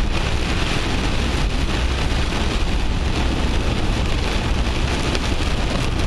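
Heavy rain beating on a moving car, heard from inside the cabin: a steady hiss over a low road rumble.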